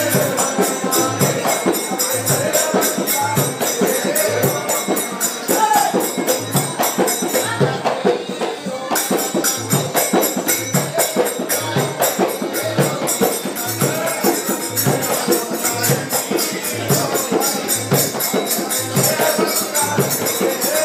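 Music for a Fiji Indian thirkuttu naach: a drum beating a steady rhythm of a little over one stroke a second, with jingling percussion over it.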